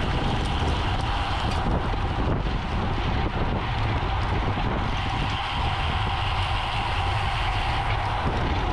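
Steady wind buffeting the microphone over tyre and road noise from a bicycle ridden at racing speed, with a faint steady whine underneath.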